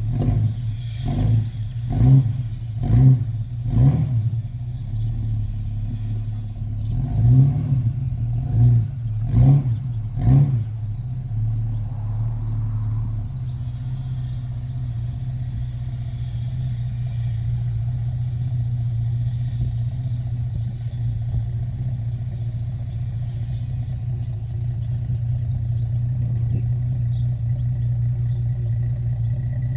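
Chrysler Hemi 265 straight-six in a Valiant CL Charger, running just after a cold start. The throttle is blipped in eight short revs over the first eleven seconds or so, then the engine settles to a steady idle.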